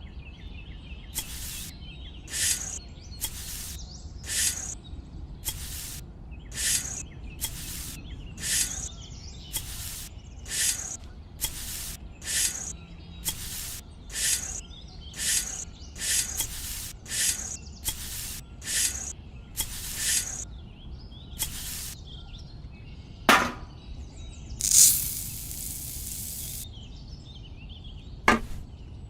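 A hand tool worked back and forth over a material in steady scraping strokes, about one and a third a second, that stop a little over twenty seconds in. Two sharp knocks follow, with a hiss lasting about two seconds between them.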